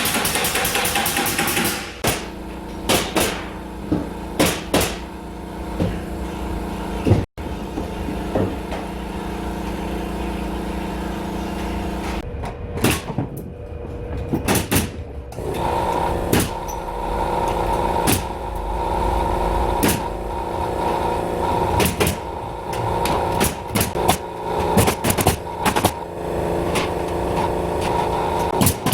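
Pneumatic nail gun firing single sharp shots in irregular clusters while ceiling moulding is nailed up, over a steady mechanical hum.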